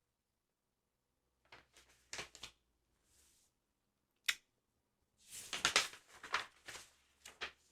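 Paper pages of a sticker album handled close to the microphone: short bursts of crinkling and rustling starting about a second and a half in, a single sharp click midway, then a longer stretch of dense rustling near the end.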